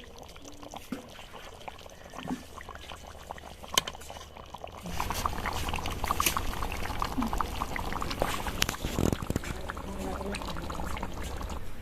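Liquid being poured steadily, starting about five seconds in, with small clicks and splashes over it.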